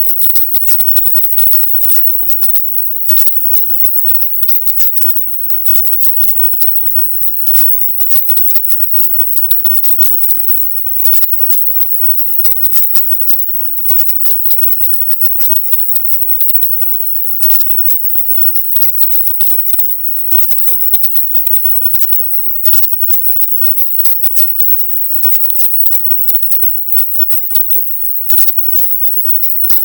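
A 'silent subliminal' audio track: dense, crackling noise that chops on and off many times a second, over a steady very high-pitched hiss.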